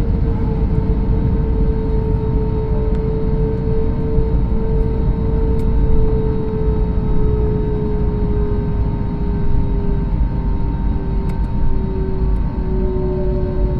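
Airbus A321neo's Pratt & Whitney geared turbofan engines heard inside the cabin while taxiing: a steady rumble with a hum that slowly sinks in pitch.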